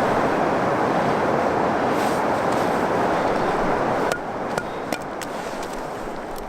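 Steady rush of a flowing stream, which drops suddenly about four seconds in; a few sharp knocks follow.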